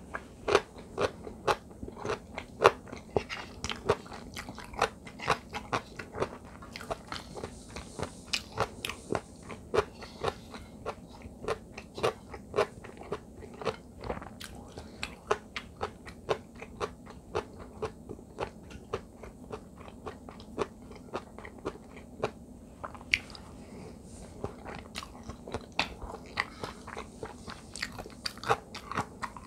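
Close-miked chewing of kkakdugi (cubed radish kimchi) fried rice: a steady run of crisp crunches, two or three a second, from the crunchy radish.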